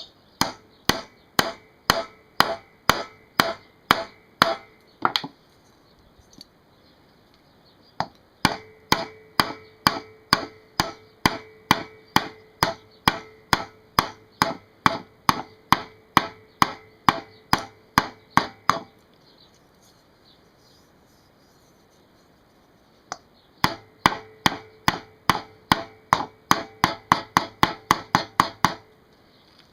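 Hammer tapping on a British Seagull outboard's brass fuel tank to knock out a dent: three runs of sharp blows, about two a second, each with a short metallic ring, with pauses between the runs.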